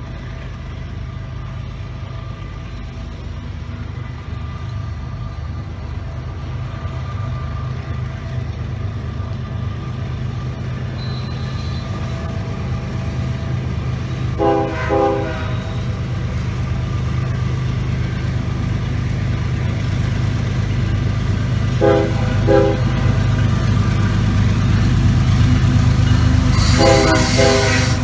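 BNSF diesel freight locomotive approaching, its low engine drone growing steadily louder. It sounds its multi-tone air horn: two short blasts about halfway through, two more about seven seconds later, and a longer blast near the end as it draws alongside.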